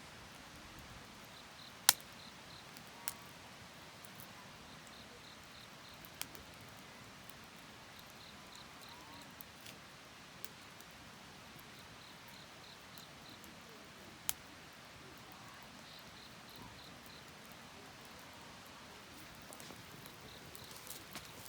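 Wood fire burning with a low hiss and a few sharp, isolated pops and cracks, the loudest about two seconds in. Faint high chirps in short groups of three or four come and go every few seconds.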